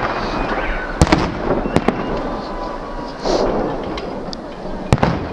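Fireworks salute going off: several sharp bangs over a steady crackling rumble, with a pair about a second in and another pair near the end.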